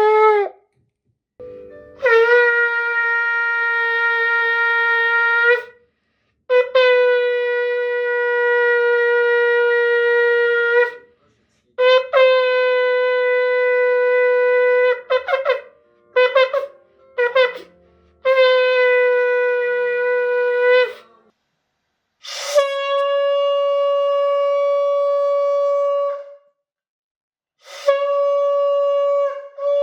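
Shofar blasts: a series of long held notes, each starting with a short upward scoop, broken in the middle by a run of short staccato blasts. The last two long blasts are pitched a little higher than the earlier ones.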